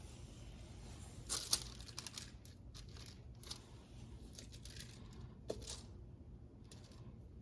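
Faint, scattered scratching and crinkling of hand work on the engine block, with a few sharper crackles about one and a half seconds in and again near five and a half seconds, over a low steady hum.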